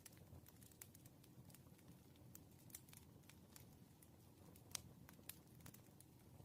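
Wood fire burning: irregular small crackles and pops over a low steady rumble, with one sharper pop about five seconds in.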